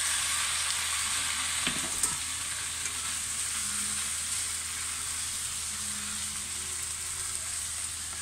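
Raw chicken pieces sizzling in hot oil with browning onions in a saucepan, stirred with chopsticks; a steady hiss, with a few sharp clicks of the chopsticks against the pan about two seconds in.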